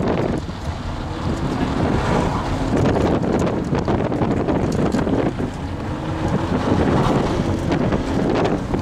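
A 1988 Toyota Supra's engine heard from inside the cabin during an autocross run, its note rising and falling as the driver works the throttle, largely buried under heavy wind noise on the microphone.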